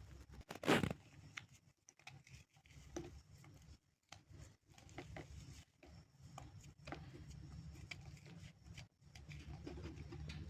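Clay being broken and crumbled by hand: irregular crackling and crumbling, with a sharper, louder crack less than a second in, over a low rumble.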